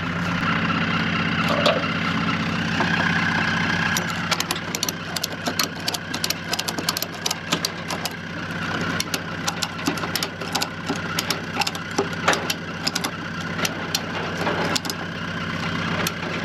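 A vehicle engine idling steadily, with a run of sharp clicks and knocks from about four seconds in.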